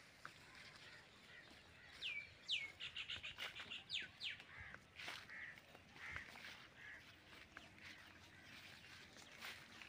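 A bird calling: two sharp falling whistles about two seconds in, then a quick chattering run of high notes and a few more falling notes. Faint footsteps on a dirt path sound underneath.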